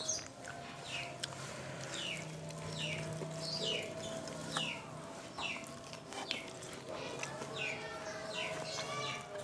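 A bird chirping over and over, short falling chirps repeated at an even pace of about one to two a second.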